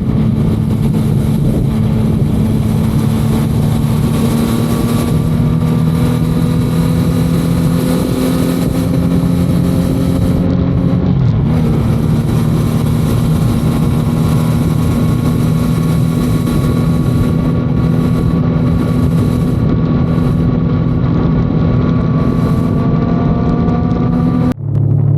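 Motorcycle engine running at highway speed under wind rush, its pitch slowly rising as it picks up speed, with a shift in engine note about eleven seconds in.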